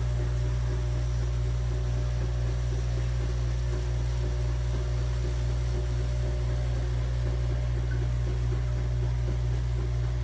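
Compact 20 bar espresso machine running with a steady, low buzzing hum.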